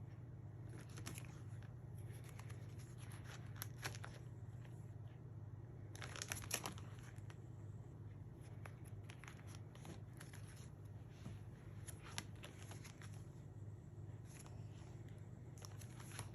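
Pages of a scrapbook album being turned and handled: faint paper rustles and light clicks, loudest about six seconds in, over a steady low hum.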